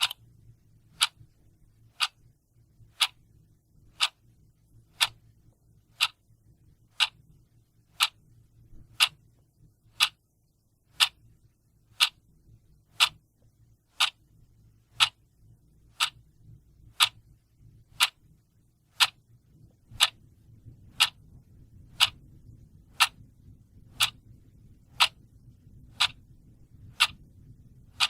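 Clock ticking steadily, one sharp tick a second, over a faint low background hum.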